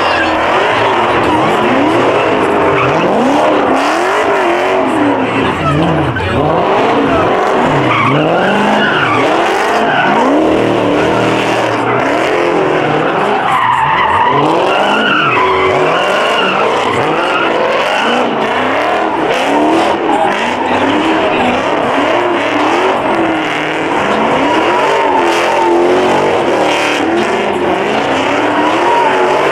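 Muscle car engines revving up and falling back over and over, loud and continuous, over steady tire squeal and skidding from cars spinning their tires.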